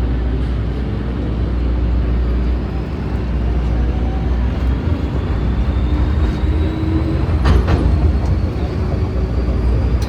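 MTR Kwun Tong line metro train running with a steady rumble and a faint whine. Near the end come two quick clusters of clacks, as of wheels over rail joints.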